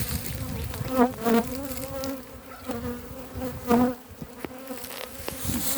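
A swarm of honeybees buzzing around an opened hive: a steady hum, with brief louder swells about a second in and again near four seconds. The colony is stirred up by the hive being split.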